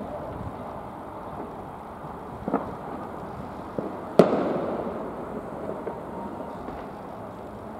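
Steady outdoor traffic noise, broken by two small sharp knocks and then, about four seconds in, one loud bang that dies away over a second.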